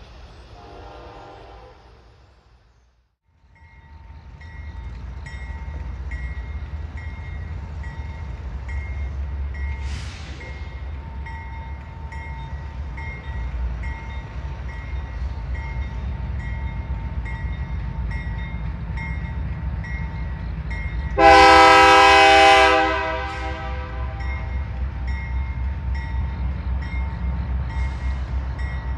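A train passes with a steady low rumble of locomotives and wheels on rail. About three-quarters of the way through, a locomotive horn sounds one loud blast of about two seconds. In the first two seconds the tail of an earlier horn blast fades out before a brief break.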